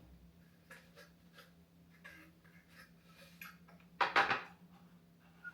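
Household items being handled, with faint small taps and then a short cluster of loud knocks and clatter about four seconds in, as things are set down. A steady low hum runs underneath.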